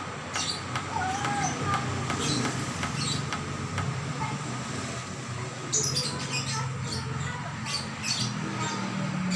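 Small songbirds chirping: short squeaky calls and sharp ticks in quick irregular succession, with a steady low hum underneath.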